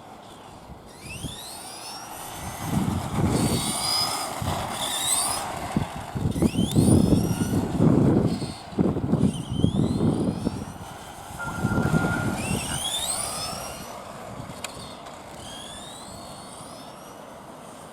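Radio-controlled Tamiya scale truck driving: its motor and gears whine, rising in pitch again and again as it accelerates, over bursts of rough rumbling from the wheels that are loudest near the middle and fade out after about two-thirds of the way through.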